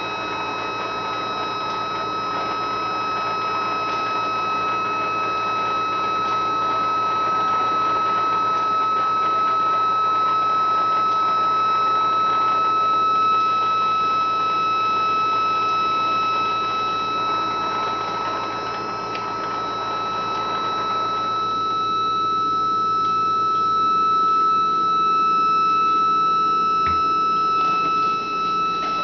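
Thermoacoustic Stirling engine singing a steady high tone with fainter overtones, the sound it makes once heat drives it into oscillation. A rushing noise underneath dies down about two-thirds of the way through.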